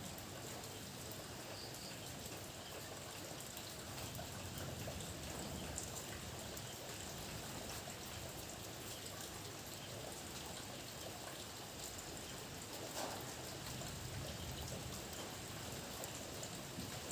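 Steady rain falling, with scattered sharp ticks of single drops striking a surface.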